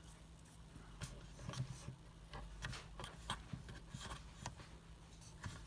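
Irregular small clicks, taps and rubbing handling noises over a steady low hum.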